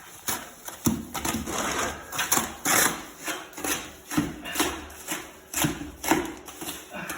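A tool scraping and slapping through a wet mortar mix being worked by hand, in repeated irregular strokes roughly one to two a second.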